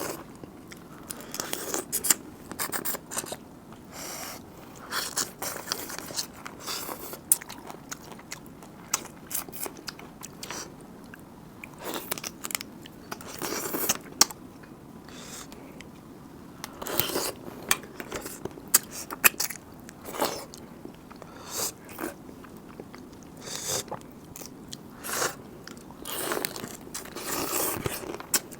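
A person eating close to the microphone: irregular chewing and biting with many sharp crunches and clicks.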